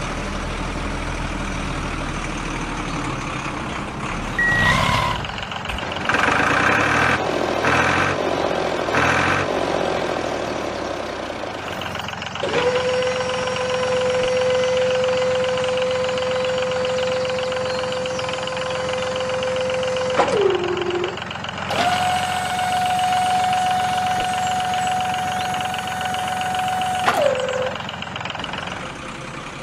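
Dump truck sounds: an engine running, with a short beep and a pulsing stretch. Then come two long steady whines, the second higher-pitched, each dropping in pitch as it cuts off, as the tipper dumps the load of sand.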